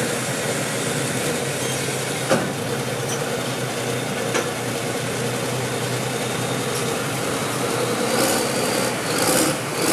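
Turbocharged 640-cubic-inch Super Farm class pulling tractor's diesel engine running under full load during a pull, a steady drone with two sharp knocks about two and four seconds in.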